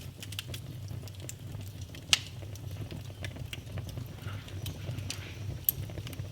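Wood fire burning in a fireplace: firewood crackling with frequent small snaps and two louder pops, about two seconds in and near the end, over a low steady rumble.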